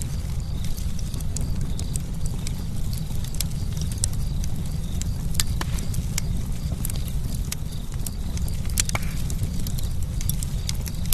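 Campfire burning: irregular sharp crackles and pops from the wood over a steady low rumble.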